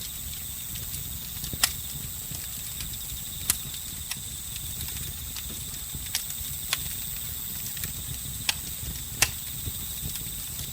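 Campfire crackling, with about seven sharp pops scattered through a low, steady rumble of burning wood. Crickets trill steadily in two high, even tones throughout.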